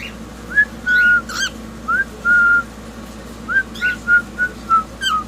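Cockatiel whistling a string of clear notes: short upward slides mixed with a few held level notes, then a quick run of short, evenly spaced notes near the end.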